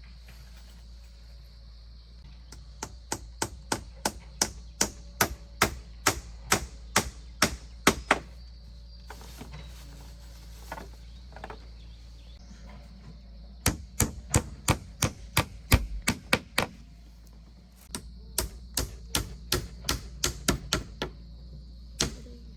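Repeated sharp strikes on wood, about two to three a second, in three runs with short pauses between and a single last blow near the end.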